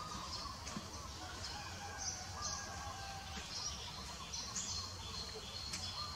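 Birds chirping and calling in the background, many short high chirps, over a steady low rumble.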